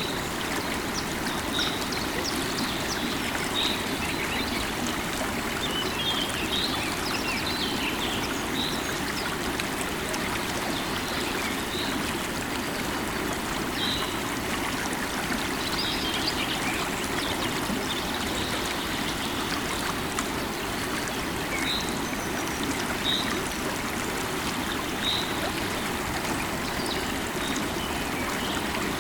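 Flowing river water running steadily, with short high bird chirps scattered throughout.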